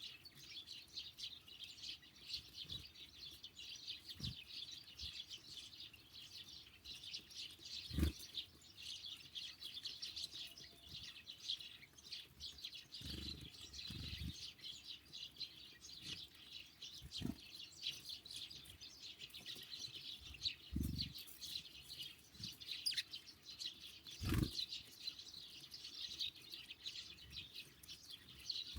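A flock of small songbirds, sparrows and great tits, chirping continuously and densely. About six dull low thumps come through now and then.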